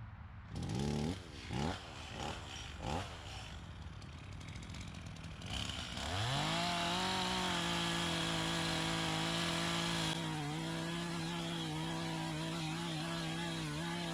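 Two-stroke chainsaw being pull-started: three pulls on the starter cord, each a short rising whir. The engine catches about six seconds in, revs up and then runs steadily at speed.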